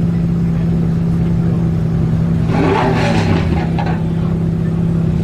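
Koenigsegg Agera RS twin-turbo V8 idling steadily, with a short rise in revs about two and a half seconds in that lasts about a second and a half before settling back to idle.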